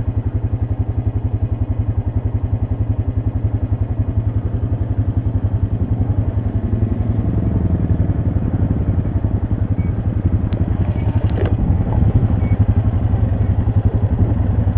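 ATV engine idling with a rapid, even pulse. About halfway through the engine sound grows fuller and louder, as another ATV comes down the slope, and a few short clicks and knocks follow.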